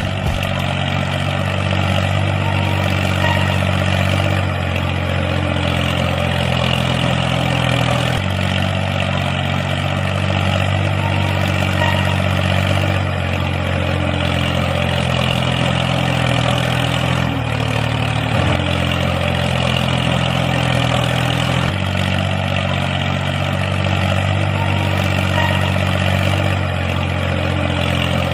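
A motor running steadily, a low hum with a rough, buzzing hiss over it. Its pitch shifts slightly every few seconds, as with changing load.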